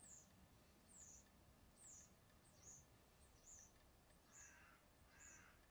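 Near silence with a faint bird chirping over and over: short high chirps that slide down in pitch, about one a second.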